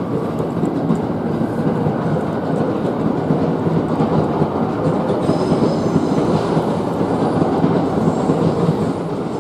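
Shinkansen bullet train running on the tracks: a steady, loud rumble of wheels on rail that drops off near the end.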